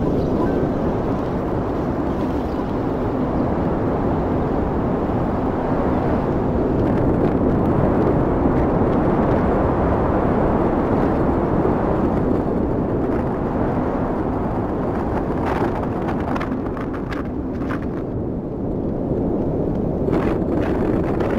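Strong wind of a desert sandstorm blasting over the microphone as a loud, steady low rumble. In the last third there are scattered crackles and taps.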